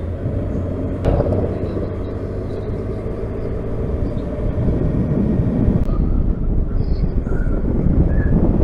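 Motorcycle engine running at riding speed with wind and road noise, heard from a helmet-mounted camera, with a sharp click about a second in.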